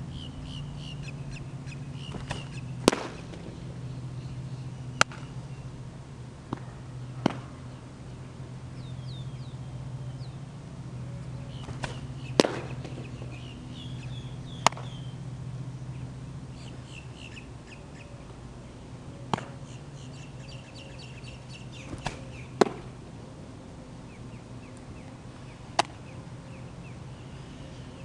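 Birds chirping over a steady low hum, with sharp clicks every few seconds.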